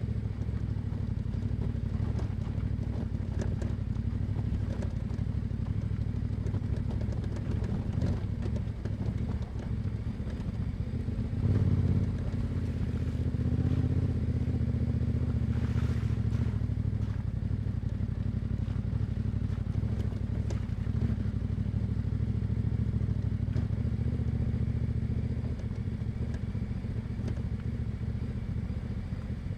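Yamaha Ténéré 700's 689 cc parallel-twin engine running through an Akrapovic exhaust while being ridden, with a short, louder burst of throttle about twelve seconds in and scattered light knocks over the steady engine note.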